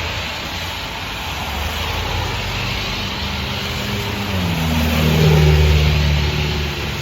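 A motor vehicle's engine over a steady rushing noise, growing louder toward a peak about two-thirds of the way through as its engine note drops lower, then easing off, like a car going past.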